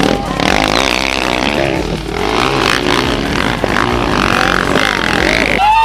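Rally motorcycle engines revving hard as the bikes pass, their pitch rising and falling. The sound changes abruptly just before the end.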